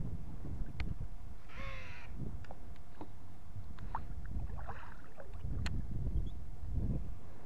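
Low wind rumble on the microphone of a moving small boat, with a bird calling twice, about a second and a half in and again near five seconds, and a few light knocks.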